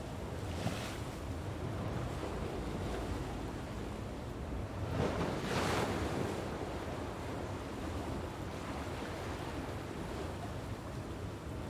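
Ocean waves washing onto a beach, with a steady surf wash and one louder wave breaking about halfway through. Wind rumbles on the microphone.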